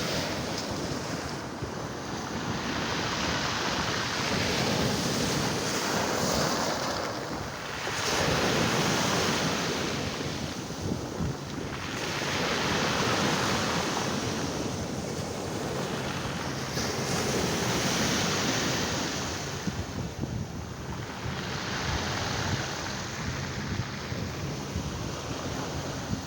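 Black Sea waves breaking on the shore, the surf swelling and falling away every four to five seconds, with wind buffeting the microphone.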